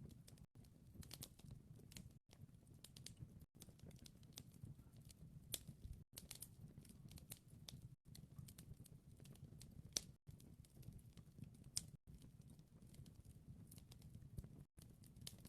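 Wood fire crackling faintly: irregular small pops and snaps, with a few sharper cracks, over a low steady rumble.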